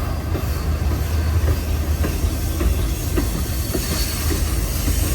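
Freight train cars rolling past at close range: a steady low rumble of wheels on rail, with a few scattered clacks.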